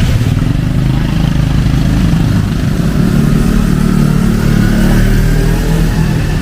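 A motor vehicle's engine running close by in traffic, over the steady hiss of heavy rain.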